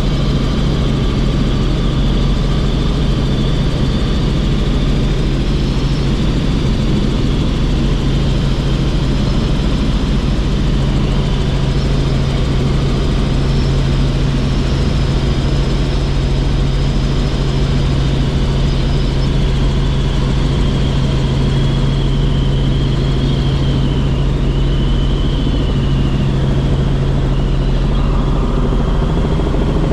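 Helicopter in flight, heard from on board: a steady, loud drone of engine and rotor, with a high whine that wavers slightly in pitch.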